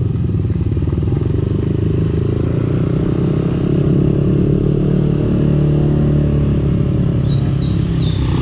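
Motorcycle engine and aftermarket exhaust running steadily while riding, the engine note rising a little midway. There are a few brief high squeaks near the end.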